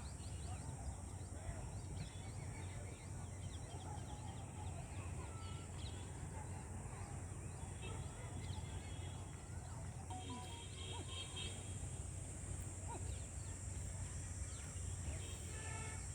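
Outdoor natural ambience: many short scattered bird chirps over a steady high-pitched drone and a low rumble.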